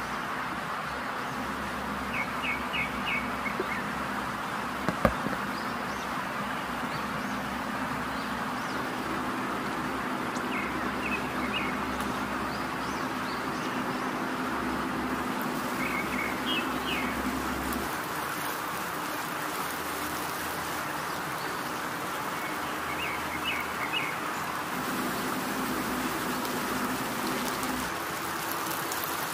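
Birds chirping in short, quick trills of three or four notes every few seconds over a steady hiss and low hum. A single sharp click comes about five seconds in.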